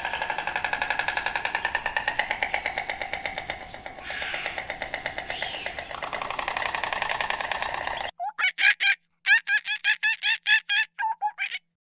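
Animal calls: a fast pulsing trill for about eight seconds, then an abrupt change to a series of short, separate calls, roughly three a second.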